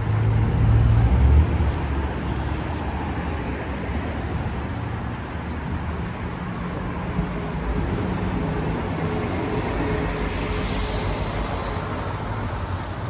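City street traffic: a large vehicle's engine passes close with a low rumble that is loudest in the first second and a half, then a steady wash of passing cars and tyre noise.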